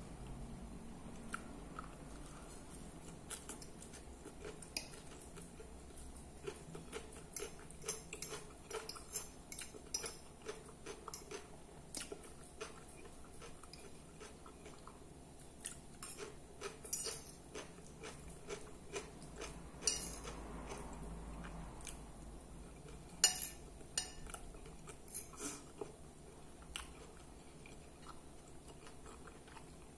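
Close-up chewing and biting of a mouthful of lettuce salad and liver with onions, with scattered short clicks of a metal fork on a glass plate. One clink about two-thirds of the way through stands out as the loudest.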